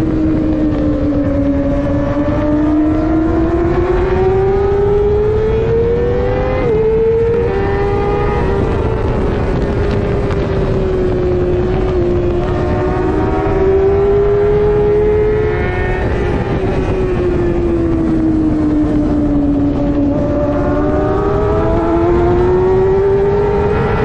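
Middleweight superbike engine running at racing speed, its pitch climbing and falling in long sweeps as it accelerates and slows. About seven seconds in the pitch drops abruptly, as at a gear change.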